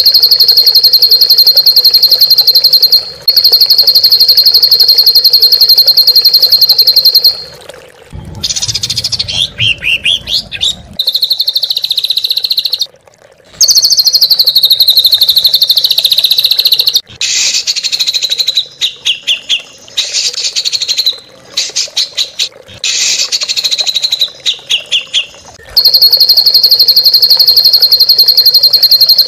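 Songbird song recorded for training caged birds. Long stretches of a loud, very fast buzzing trill open and close the passage, and in the middle come varied whistled phrases with rising and falling glides and quick runs of repeated notes.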